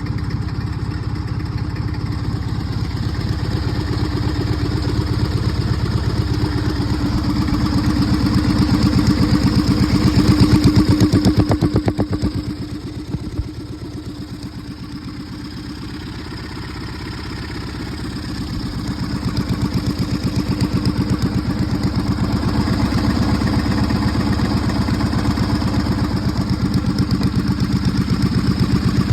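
John Deere 400 lawn tractor engine running steadily, speeding up to about ten seconds in, dropping back to a slower, quieter run around the middle, then picking up again.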